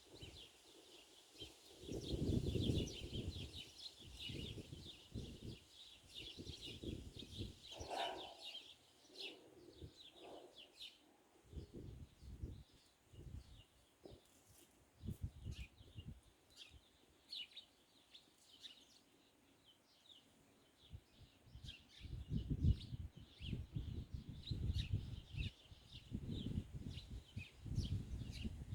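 Small birds chirping in many short, quick high chirps, busiest in the first part. Low, gusty rumbling comes and goes, strongest near the end.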